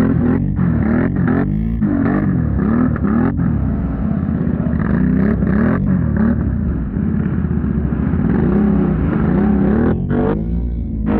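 ATV engine through a loud exhaust, revving up and down over and over with a brief break near the end.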